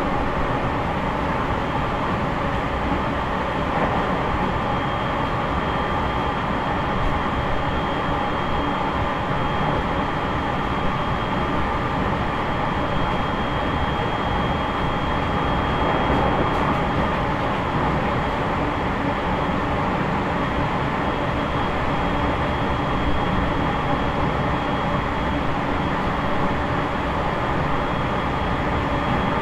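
Running noise of an E501 series electric train heard from inside its motor car MoHa E501-8: steady wheel-on-rail rumble and motor noise at an even speed, with a faint steady high tone.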